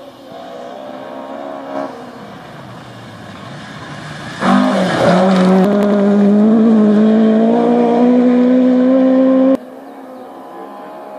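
Rally car engines. First a fainter car is heard accelerating. About four and a half seconds in, a much louder car arrives close by, its engine note dipping briefly and then climbing steadily as it accelerates, until the sound cuts off suddenly.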